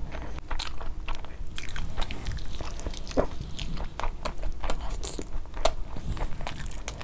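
Close-miked biting and chewing of spiced roast chicken, with irregular wet clicks and crunches as the meat is torn off the bone and chewed.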